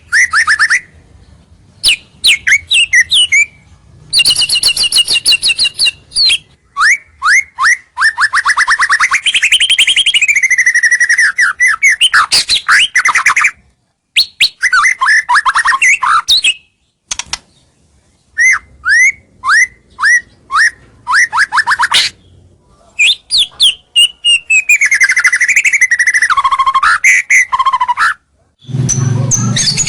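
White-rumped shama (murai batu) singing loudly: bursts of rapid trills, sweeping whistled notes and sharp ticking calls, broken by short pauses. A low hum comes in near the end.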